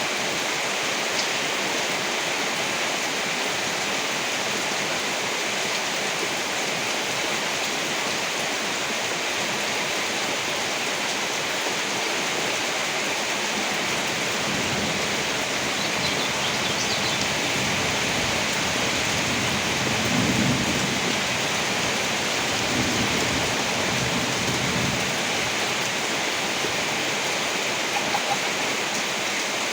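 Steady rain, with a low rumble of thunder swelling through the middle and peaking about twenty seconds in.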